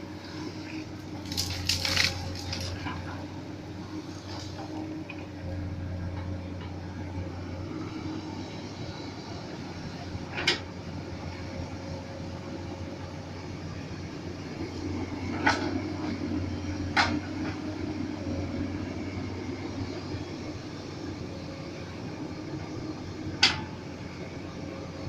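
Komatsu PC200 hydraulic excavator running steadily while digging, with a cluster of sharp knocks about two seconds in and four more single knocks scattered through the rest.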